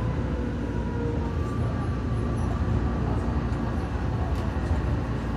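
Odakyu Electric Railway train running, a steady low rumble, with a few faint steady tones in the first second or so.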